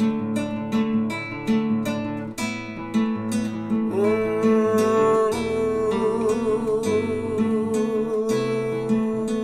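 Folk song instrumental break on steadily strummed acoustic guitar. About four seconds in, a held, wavering melody line comes in over the guitar.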